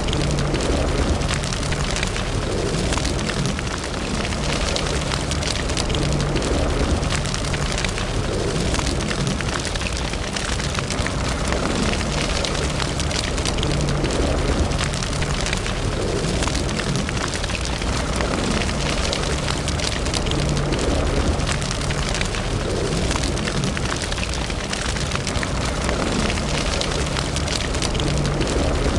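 Fire burning in a fireplace, crackling steadily: many small sharp pops over a low, even rushing hiss.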